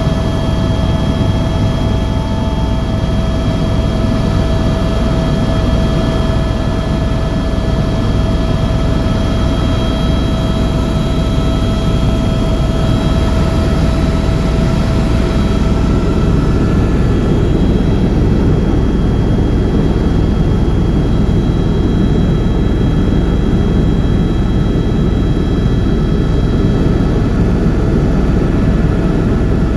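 Helicopter turbine engine and rotor running steadily: a loud drone and rumble with several steady whine tones on top, which change about halfway through.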